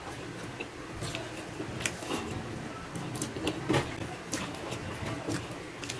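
Close-miked chewing with wet mouth clicks and smacks coming irregularly, a few each second, as a mouthful of rice and stingray in coconut milk is eaten by hand.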